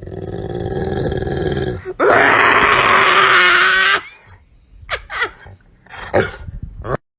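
An animal's vocal call: a drawn-out pitched call swells over about two seconds, breaks into a loud harsh cry for about two seconds, then three short calls follow.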